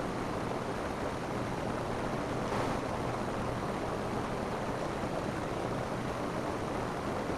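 Rain falling steadily on a roof, an even hiss of many drops, swelling slightly about two and a half seconds in.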